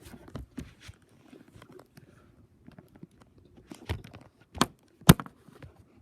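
Handling noise from an iPad being moved and propped up: scattered light clicks and taps, with two sharper knocks near the end.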